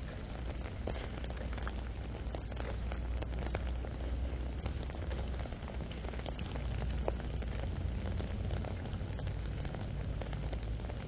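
Steady rainfall, with many separate drops ticking sharply close by, over a steady low rumble.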